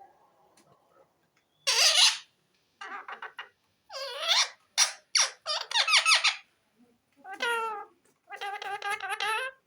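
Indian ringneck parakeet vocalizing: a string of about eight short, squeaky calls and chattering bursts with quick pitch sweeps, separated by brief pauses.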